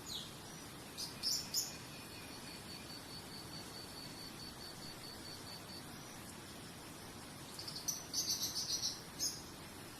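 Nature ambience of birds chirping in short high bursts, about a second in and again in a cluster near the end, over a steady soft hiss. For several seconds in between, a thin high call pulses evenly about three times a second.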